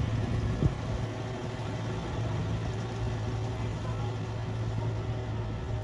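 Kubota combine harvester's diesel engine running steadily, with a single sharp knock less than a second in.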